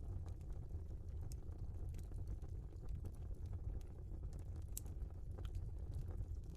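Log fire burning: a steady low rumble of flames with scattered sharp crackles and pops from the burning wood, a louder pop a little after the midpoint.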